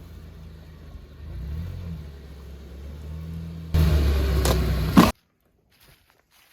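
UAZ Bukhanka van's engine running low, rising in revs, then surging loudly for about a second with a sharp knock near the end, after which the sound cuts off abruptly.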